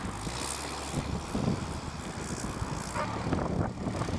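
Engine of a home-built 'redneck roller coaster' ride-on vehicle running steadily as it is driven through snow, with a few irregular knocks over the hum.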